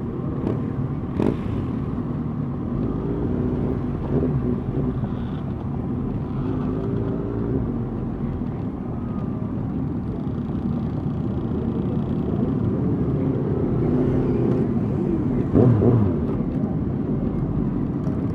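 Several motorcycle engines running together at low parade speed, their pitch rising and falling as throttles open and close. There is one brief, louder rev near the end.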